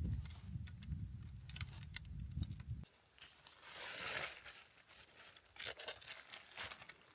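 Rustling with scattered small crackles and clicks. A low rumble under the first three seconds cuts off suddenly, and the rustling swells about four seconds in.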